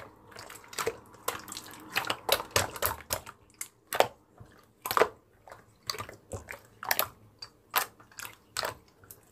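A series of short, sharp clicks and taps at an uneven pace, about two or three a second, some louder than others.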